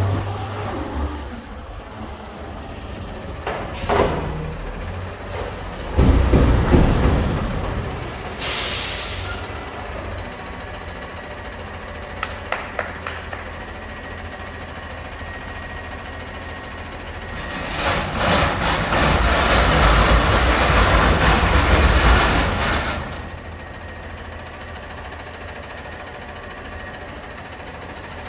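Garbage truck's diesel engine running, with a knock about four seconds in, a short sharp hiss of air brakes about eight seconds in, and a long louder stretch of engine and mechanical noise between about eighteen and twenty-three seconds.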